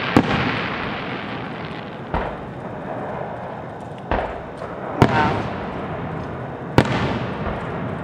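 Fireworks display: five sharp booms of aerial shells bursting, the loudest at the start, about five seconds in and near the end, with a continuous rolling rumble between them.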